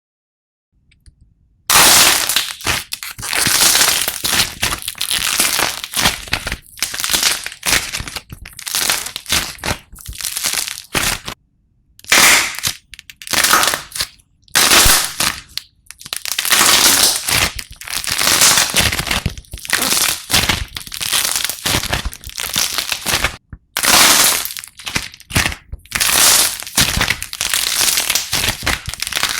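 Slime being squeezed and worked by hand, making irregular bursts of crisp, sharp noise with short pauses between handfuls, starting about two seconds in.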